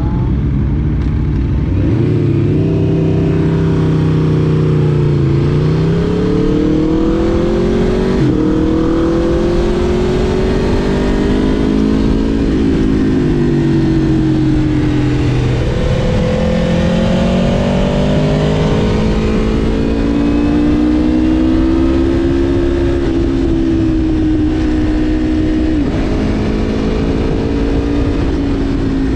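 2021 Aprilia RSV4 Factory's V4 engine under way, its note climbing as it accelerates and dropping back again several times, with abrupt pitch changes at gear changes and throttle lifts.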